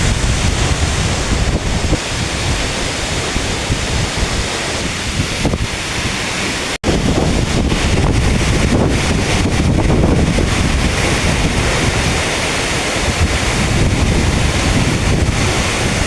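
Waterfall plunging close by, a loud steady rush of falling water, with strong wind buffeting the microphone. The sound drops out for an instant about seven seconds in.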